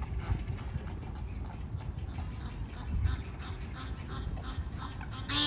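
Birds calling: a steady run of short, faint calls, then a loud honking call starting near the end, over a low rumble.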